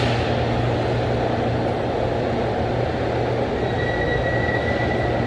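Steady low mechanical drone with a constant hum and rumble, joined by a faint thin high whine from about three and a half seconds in.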